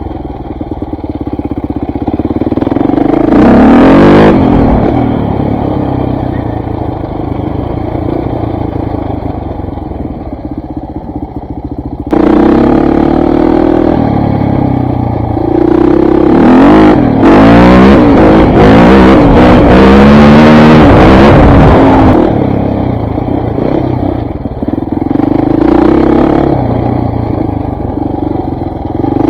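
KTM 400 MXC dirt bike's single-cylinder four-stroke engine running under a rider, revving up and dropping back again and again. It revs briefly about three seconds in, then pulls hard with quick rises and falls in pitch for about ten seconds from roughly twelve seconds in, settling back to lighter throttle near the end.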